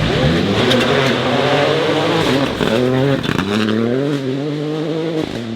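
Rally car engine revving hard under acceleration, its pitch climbing, dropping sharply about three seconds in, then climbing again.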